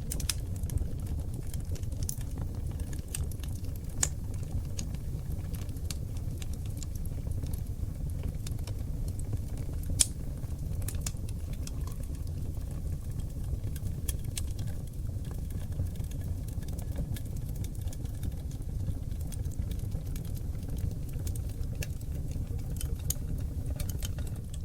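Wood fire of oak logs burning in a fireplace, crackling with irregular sharp pops over a steady low rumble; the loudest pop comes about ten seconds in.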